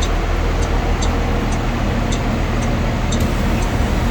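Blue Bird school bus diesel engine idling steadily, with the turn-signal flasher clicking about twice a second.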